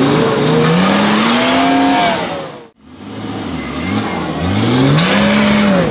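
Off-road 4x4's engine revving hard under load as it climbs out of a dirt trench. The revs climb and drop back twice, broken by a brief silence about halfway.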